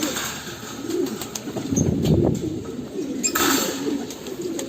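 Racing pigeons cooing in their loft, several low, wavering coos overlapping, with a brief rustle about three seconds in.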